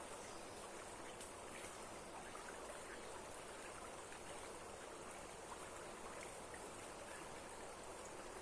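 Steady rush of running water from a waterfall, an even hiss with small splashes ticking in it.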